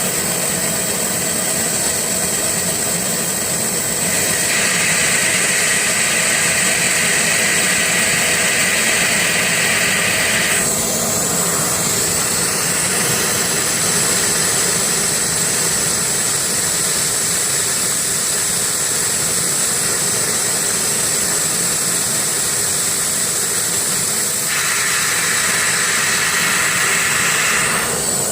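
Fiber laser machine cutting a hole in mirror glass: a steady hiss with a high, steady whine. A harsher buzzing layer comes in about four seconds in, stops about ten seconds in, and returns for a few seconds near the end.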